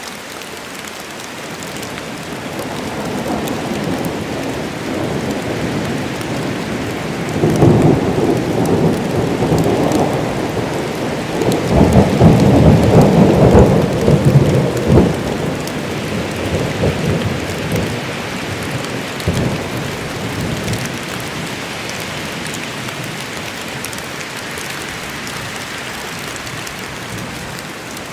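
Steady rain falling in a forest, with a long roll of thunder that builds a few seconds in, peaks twice around the middle and rumbles away, leaving the rain alone near the end.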